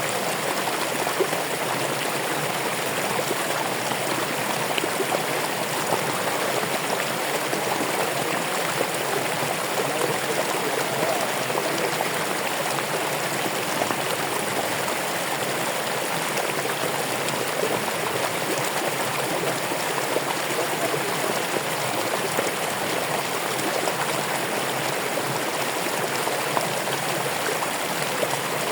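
Running water of a stream, a steady, even rush with bubbling detail.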